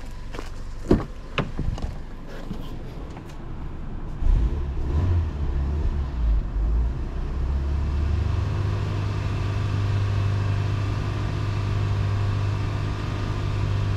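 Fiat Punto Evo's 1.2 FIRE four-cylinder petrol engine heard from inside the cabin, its revs raised in steps about four seconds in and then held steady at a fast idle to bring the engine up to temperature while the thermostat is still closed during a coolant bleed. A couple of sharp knocks sound about a second in.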